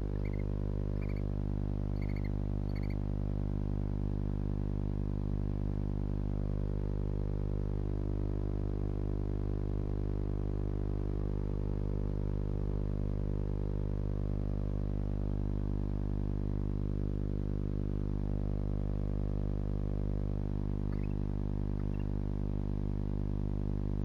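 Steady electrical hum with many overtones, unchanging throughout. Four short, high chirps come in the first three seconds, with a couple of fainter ones near the end.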